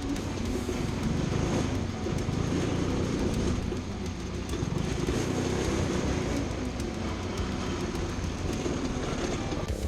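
An engine running steadily at a fairly even speed.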